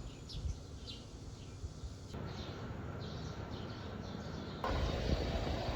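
Outdoor background noise with short bird chirps now and then. The background changes abruptly twice, with a low rumble in the last second or so.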